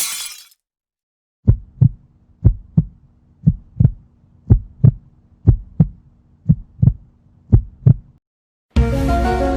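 Heartbeat sound effect: seven double thumps, lub-dub, about one beat a second, over a faint low hum. Music starts near the end.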